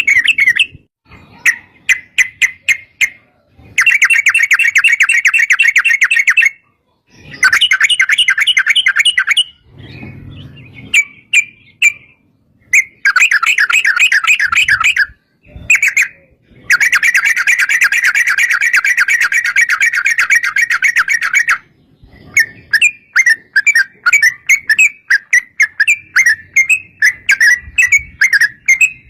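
Yellow-vented bulbul (trucuk) singing: long, fast rolling trills of repeated notes, broken by short pauses, then a choppier string of separate chirps near the end.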